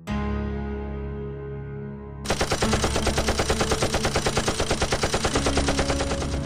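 Rapid machine-gun fire from a Terminator Salvation arcade shooting cabinet, about ten shots a second, starting a couple of seconds in and cutting off abruptly near the end. Under it, a steady hum of arcade machines and game music.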